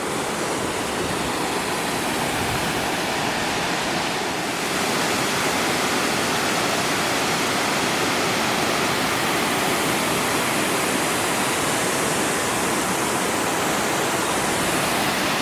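Waterfall cascading over several drops, rushing steadily, a little louder from about four seconds in.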